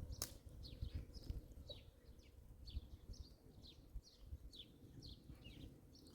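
A bird chirping over and over in short, downward-sliding chirps, about two or three a second, faintly, over a low rumble with scattered thumps.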